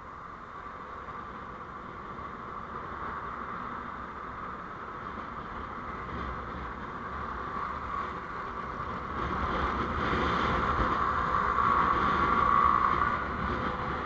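Vehicle on the road recorded by a dashcam: a steady hum of engine and road noise that swells louder about nine seconds in, peaks, and eases near the end.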